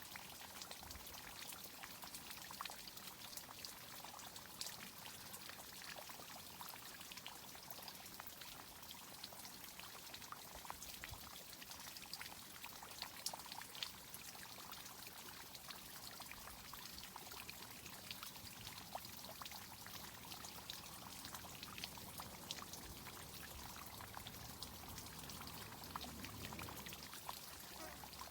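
Water from a tree irrigation system pouring and trickling steadily, with a scattered patter of small drips.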